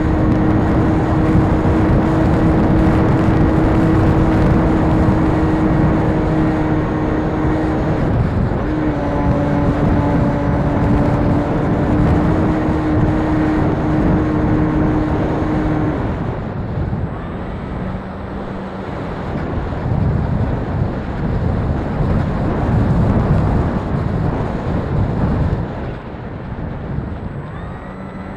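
Electric RC model airplane's motor and propeller whining at a steady pitch over heavy wind buffeting on the microphone. The whine breaks briefly and drops a little in pitch, then cuts out about halfway through, leaving mostly wind rumble.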